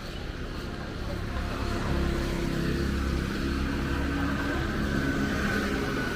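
Motor vehicle engine running close by on a city street, its rumble growing louder over the first two seconds and then holding steady over the traffic hum.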